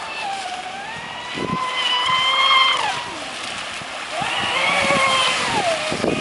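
Traxxas Spartan RC speedboat's brushless electric motor whining. The pitch climbs twice and holds for a second or two each time as the throttle is opened, then falls as it is eased off. Water splashes against the hull as the boat runs.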